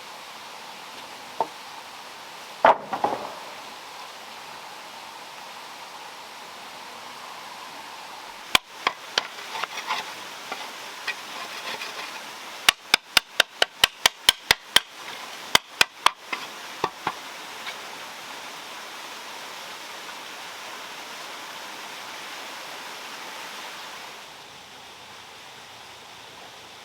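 Sharp hammer strikes, a few scattered, then a quick run of about a dozen at roughly four a second, then a few more, over a steady rush of flowing water.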